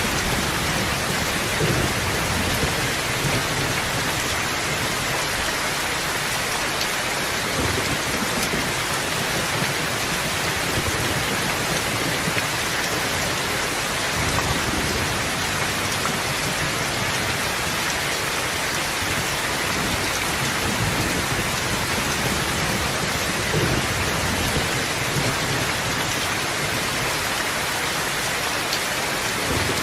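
Steady rain: a dense, even hiss, with faint low rumbles now and then.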